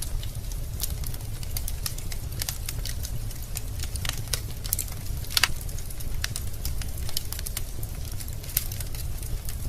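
Wood fire crackling in a fireplace: burning logs give irregular sharp pops and snaps over a steady low rumble, with one louder pop about halfway through.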